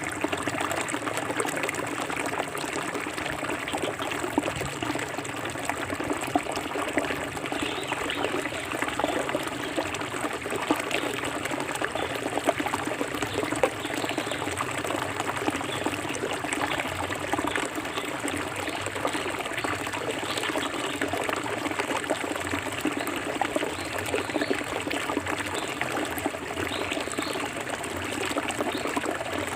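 Clear forest stream flowing steadily over stones, a continuous babbling and trickling.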